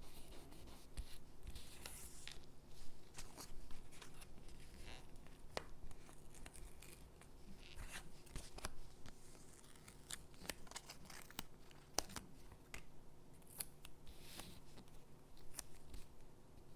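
Stickers being peeled off their backing sheet and pressed onto paper cutouts: short peeling rustles among many small crisp clicks and taps of paper.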